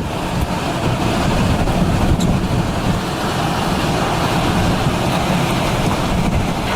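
Hurricane wind blowing hard, a loud, steady rush of noise that is heaviest in the low end.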